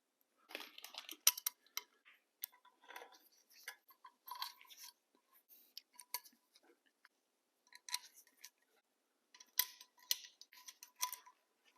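Scattered light clicks and metallic clinks of hand tools and metal engine parts being handled, irregular and fairly quiet, with small clusters of clinks near the start, middle and end.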